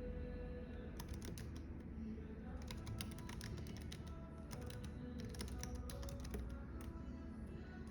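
Typing on a computer keyboard in quick runs of keystrokes with short pauses between them, starting about a second in. Underneath is a steady low café background hum with faint music.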